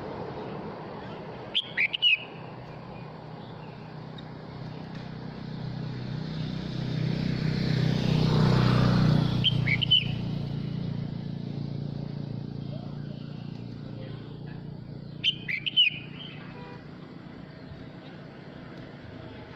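Red-whiskered bulbul giving three short, sharp chirping phrases, spaced several seconds apart, over a low rumble that swells and fades around the middle.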